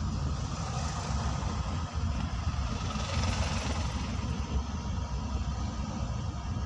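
A vehicle engine running steadily, a low rumble, under an even hiss of rain.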